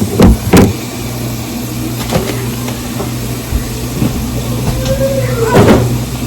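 A steady low mechanical hum, like a small motor running. A few sharp knocks come in the first second and another near the end.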